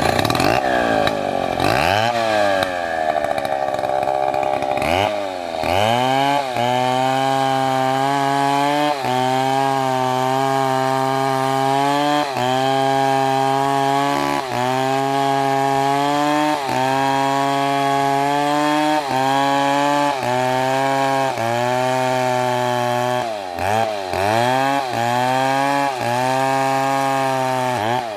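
Two-stroke chainsaw at high revs cutting wood, its pitch dipping slightly about once a second under load. The revs drop and climb again in the first few seconds and once more near the end.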